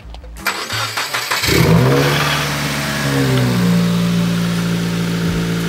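A car engine being started: the starter cranks for about a second, then the engine catches, flares up in revs and settles to a steady idle.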